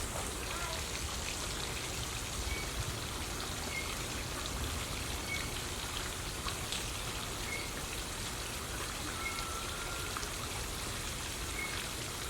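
Steady splash and hiss of running water, with faint short high bird chirps repeating about once a second.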